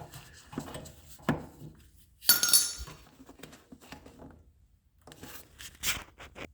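Scattered metallic clicks and clinks of hand tools working at a generator's fuel line and hose clamp, with the sharpest clink about two seconds in.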